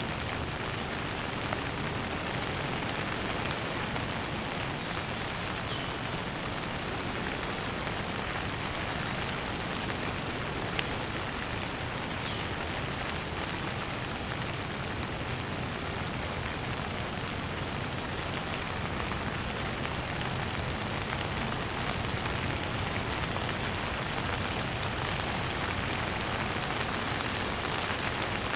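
Steady rain falling and pattering on surfaces, an even unbroken hiss, with a few faint high chirps now and then.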